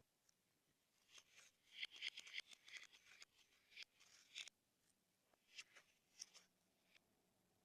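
Slime being squished and worked by hand, giving faint sticky crackles and little pops. A dense run of them comes between about one and four and a half seconds in, then a few more a little later.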